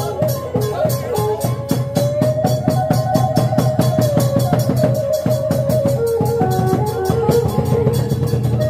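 Khmer chhay yam drum music: quick, dense drum and percussion strikes under a held melody line that wavers up and down.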